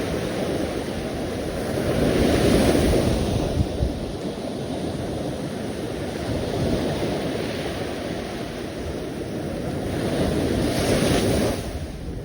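Ocean waves washing in on the shore, swelling twice: once about two seconds in and again near the end, the second surge falling away quickly. A low rumble of wind on the microphone runs underneath.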